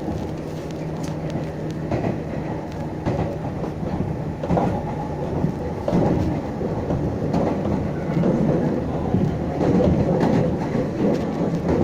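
Meitetsu 6500 series electric train running, a steady rumble with the wheels clicking over rail joints at irregular intervals. A low hum is clear early on, and the running noise grows louder from about halfway through.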